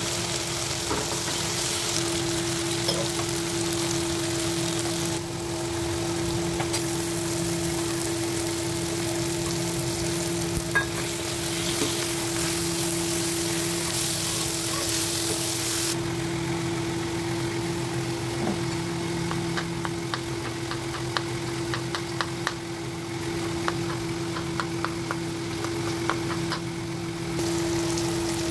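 Onion-tomato masala and fish sizzling in oil in a non-stick kadai, stirred and scraped with a spatula, with a run of light spatula taps on the pan in the second half. A steady low hum runs underneath.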